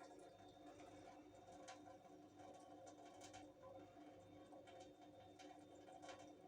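Near silence: a faint steady hum with a few soft ticks.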